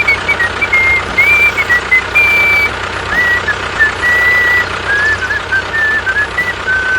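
A vehicle engine running steadily, with a whistled tune over it that hops between short high notes and ends on one held note near the end.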